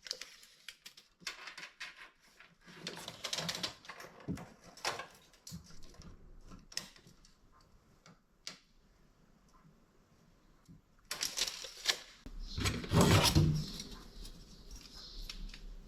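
Irregular clicks, taps and short rattles of sheet metal and hand tools being handled, with a louder stretch of rattling and scraping about eleven seconds in.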